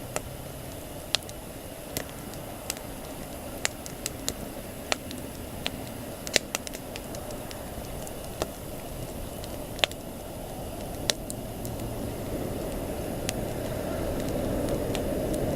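Wood campfire crackling: irregular sharp pops and snaps from the burning wood over a steady low rush of flame. The rush grows louder over the last few seconds.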